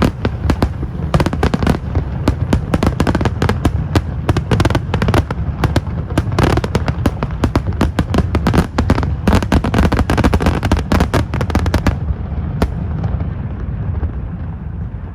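Fireworks going off in a dense, rapid barrage of bangs and crackles that stops about twelve seconds in, leaving a fading low rumble.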